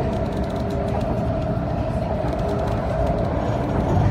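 MTR Ma On Shan Line C-Train running: a steady low rumble with a steady whine over it.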